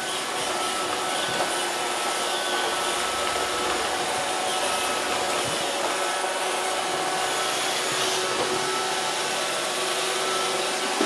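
Roomba robot vacuum running with a steady whirring hum.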